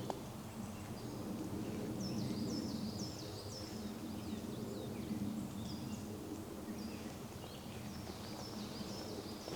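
A songbird singing: runs of quick, high, falling notes, repeated several times, over a steady low background rumble.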